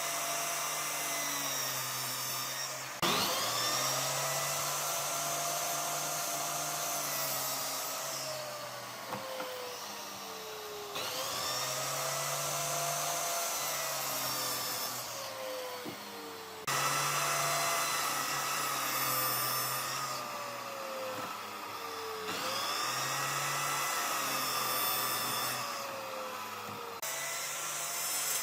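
Electric power tool working wood: a high-pitched motor whine whose pitch sags and slowly falls as it bites into the wood, then rises again. It is heard in several stretches joined by abrupt cuts.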